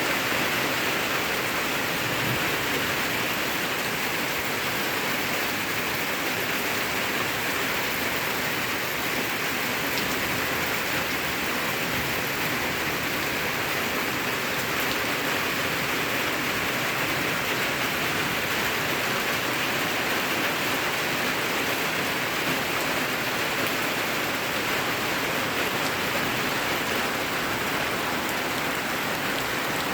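Steady rain falling, an even, unbroken hiss that neither builds nor fades.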